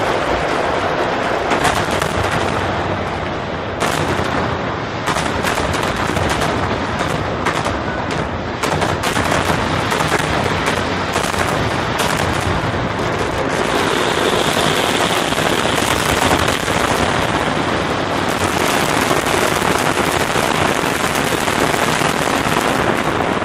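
Aerial fireworks bursting in rapid succession: a dense, unbroken run of bangs and crackles.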